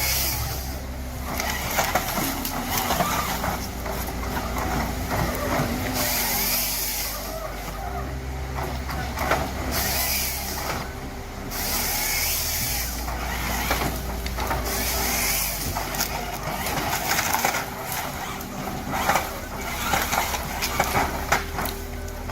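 Engine of heavy wood-processing machinery running steadily, with bursts of hiss every few seconds and scattered knocks.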